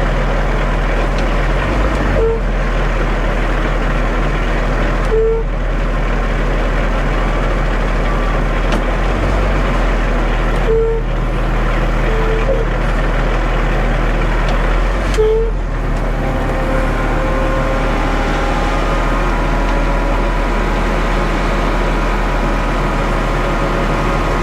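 Concrete mixer truck's diesel engine running steadily as the truck creeps forward at a slow crawl. Several brief short chirps sound every few seconds over the steady engine.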